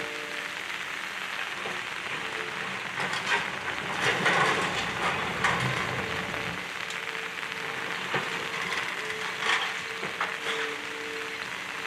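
Excavator demolishing a concrete-and-steel office building: a steady crackle of crumbling, falling debris with sharp crunches and clatters, loudest around four seconds in and again near ten seconds, over a faint steady machine hum.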